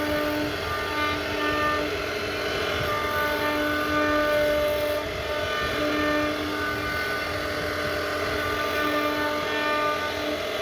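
CNC router carving wood: a steady whine at one fixed pitch that comes and goes every second or two over a continuous rushing cutting noise.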